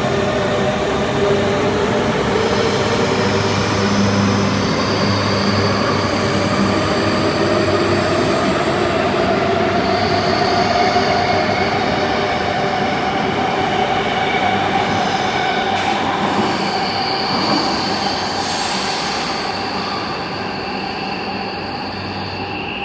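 MI2N double-deck electric train pulling away, its traction equipment giving a whine of several tones that climb slowly as it accelerates. It grows fainter over the last few seconds.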